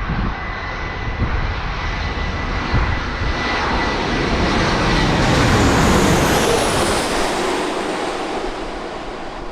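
Jet airliner passing close by, its engine noise swelling to a peak about six seconds in, with a high whine that falls in pitch as it goes past.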